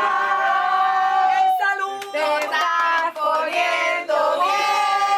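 Music with singing voices, several held, sung notes.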